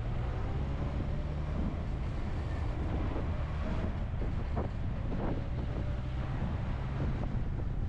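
Vehicle driving along a road: a steady low rumble of engine and tyres with wind noise over the microphone.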